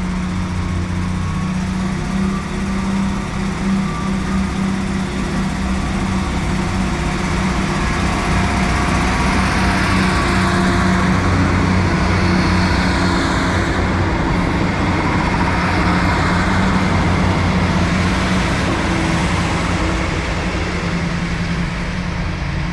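Diesel train engines running steadily with a low hum, growing louder through the middle and easing near the end.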